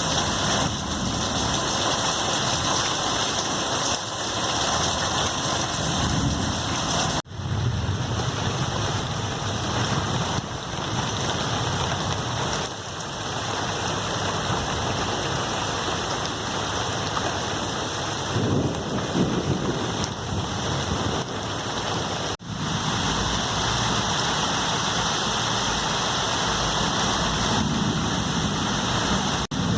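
Heavy rain pouring down steadily, a dense even hiss. It cuts out for an instant twice, about a quarter of the way in and again about three-quarters of the way in.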